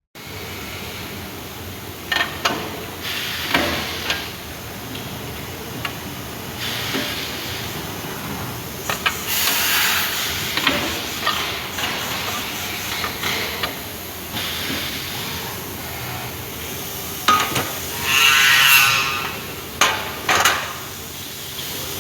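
Elumatec SBZ 122 machining center running: a steady machine noise with repeated bursts of hiss, like compressed air, and several sharp clanks and knocks. The loudest hiss comes about three-quarters of the way in.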